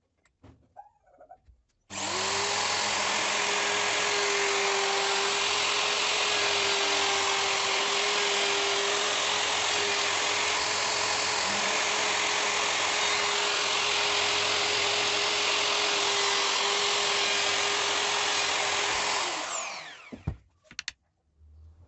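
Electric router starting suddenly about two seconds in and running at a steady pitch for about seventeen seconds, then switched off and spinning down with a falling whine near the end.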